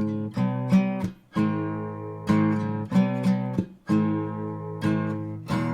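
Art & Lutherie Wild Cherry acoustic guitar with Ernie Ball Earthwood Extra Light strings, chords strummed one after another at an easy, uneven pace, each ringing on into the next. A last chord is struck near the end and left to ring.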